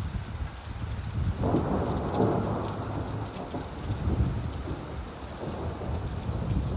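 Steady rain with a low rolling rumble of thunder that swells about a second and a half in and fades over the next few seconds.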